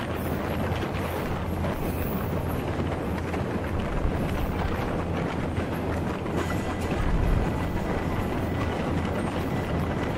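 Passenger train running along the track, heard from on board: a steady rumble of wheels and carriage. A faint high whine joins it past the middle.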